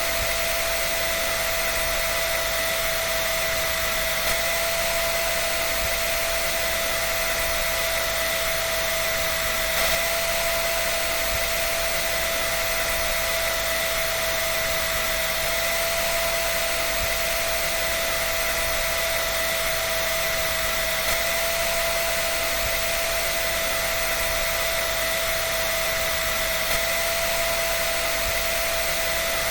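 A dryer running steadily: a constant rush of air with a high, even whine over it, unchanging throughout.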